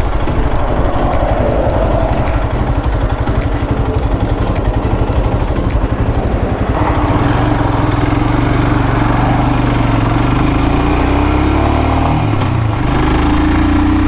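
Royal Enfield Himalayan's single-cylinder engine running while riding, with wind noise. From about seven seconds in the engine note steadies and slowly climbs in pitch as the bike accelerates, dipping briefly near the end before rising again.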